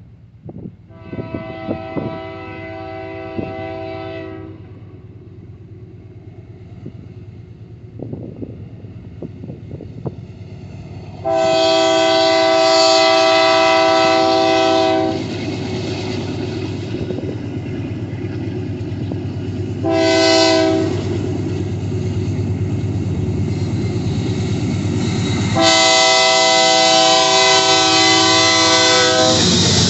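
Locomotive horn sounding four blasts: one near the start, a longer one about eleven seconds in, a short toot around twenty seconds, and a long blast near the end. Under the blasts runs the steady rumble of a moving train, which grows louder.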